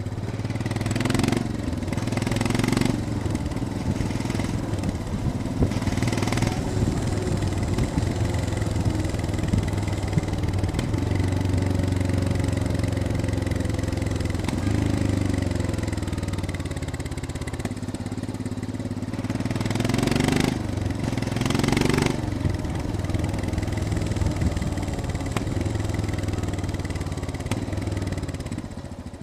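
Royal Enfield Scram 411's single-cylinder engine running on a downhill ride, its pitch sinking around the middle and climbing again later. Several brief, louder rushes of noise come through the engine sound.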